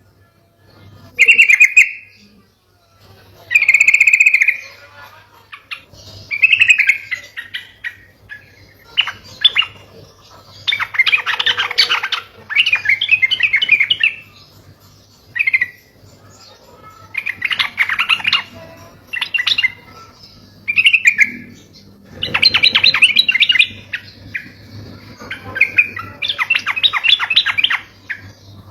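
Yellow-vented bulbul song: short bubbly phrases every second or two, broken by several longer, rapid chattering runs.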